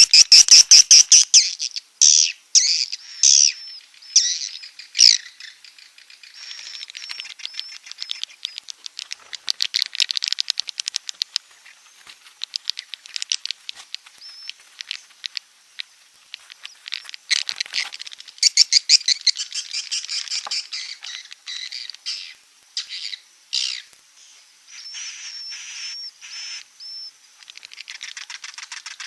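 Swiftlet (walet) calls: a dense run of high chirps and rapid clicking, buzzing trills, loudest in the first few seconds. It is a swiftlet roosting-call ('inap') sound of the kind played to draw swiftlets into a nest house.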